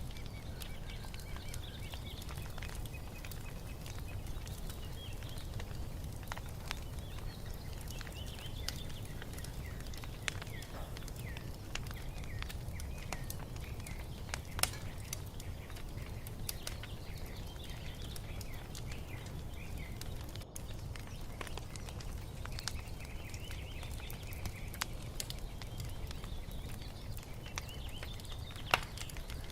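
Wood fire crackling over a low steady rumble, with a few sharp pops, the loudest about halfway through and near the end. Songbirds chirp in short phrases now and then.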